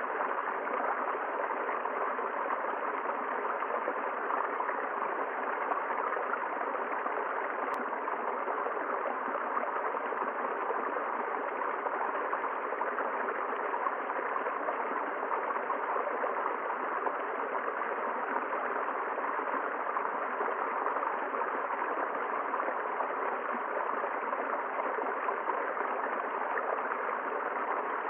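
River water flowing and rushing over rocks, a steady, unbroken noise.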